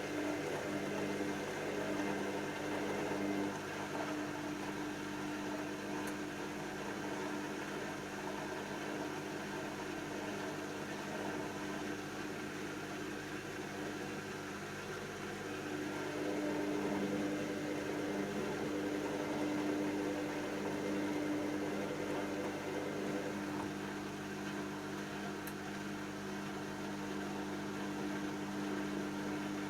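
Hoover DYN7144XD1 washing machine running its cycle: a steady motor hum at a constant pitch over a haze of drum noise, swelling slightly about halfway through.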